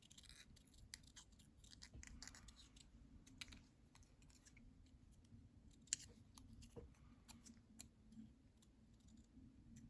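Faint handling of paper craft pieces: scattered light clicks and short paper rustles.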